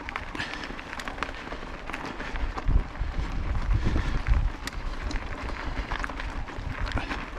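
Fat-tyre bicycle rolling over a dirt forest trail: the tyres crunch and crackle over gravel and twigs with scattered small clicks and knocks. Wind buffets the microphone in low rumbling gusts about halfway through.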